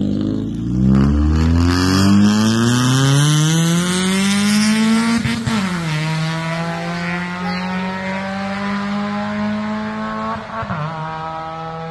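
Mazda Miata's inline-four engine accelerating away, its pitch climbing steadily, then dropping at a gear change about five and a half seconds in and holding steady. There is another brief dip near the end.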